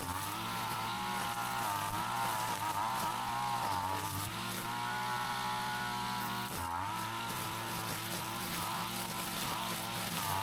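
Brush cutter's small engine running at high speed, its pitch wavering up and down and dipping briefly about two-thirds of the way through.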